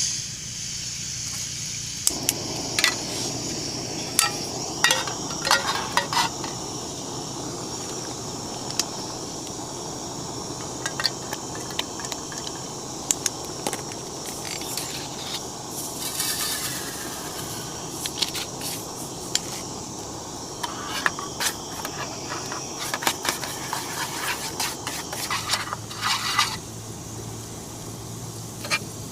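Food frying in a pan with a steady sizzle. A fuller rushing joins about two seconds in, and frequent short clinks and scrapes of a utensil against the pan run through it.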